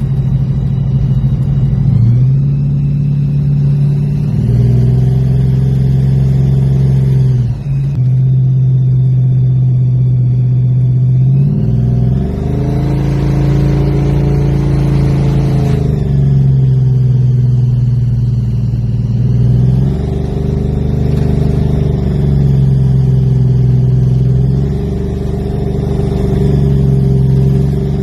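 1969 Plymouth Road Runner's V8 under way, its engine note climbing under acceleration and falling back several times as the car shifts and eases off.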